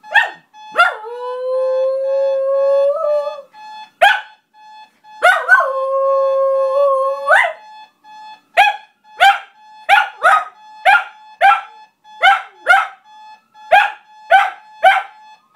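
Shiba Inu howling and yipping along with a beeping alarm clock: two long, held howls broken by sharp yelps, then a run of about a dozen quick yips, roughly two a second, in the second half. The alarm clock's beeping runs steadily underneath.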